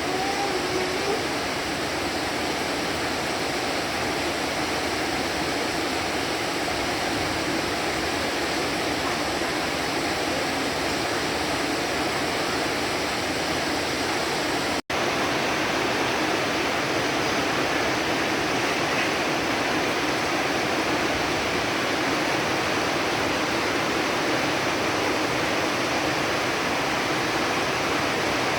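Heavy rain falling steadily, an even hiss with no thunder, broken by a split-second dropout about halfway through.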